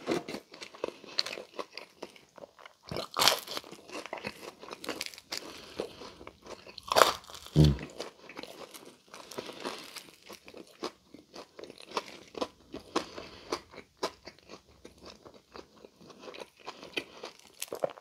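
Close-miked chewing and crunching of a crispy thin-crust Pizza Hut Melt, with irregular crackly bites. Louder crunches come about three and seven seconds in.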